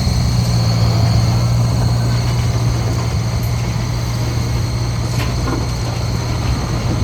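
Heavy diesel engine of construction machinery running steadily, a strong, even low drone at close range.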